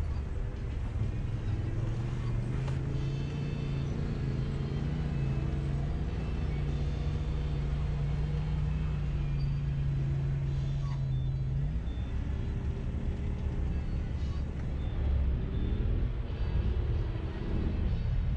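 Jeep engine running at low, steady revs, its pitch dropping and wavering about twelve seconds in.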